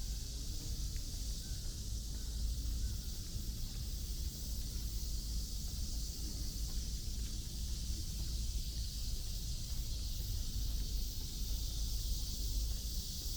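Outdoor ambience along a city park path: a steady low rumble underneath a steady high hiss, with no single event standing out.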